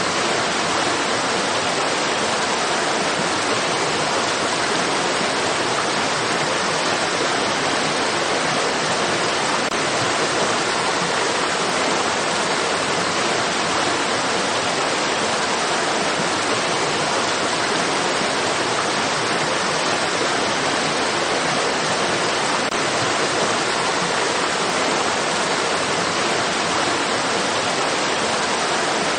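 Steady rushing of flowing water, a constant even hiss with no changes.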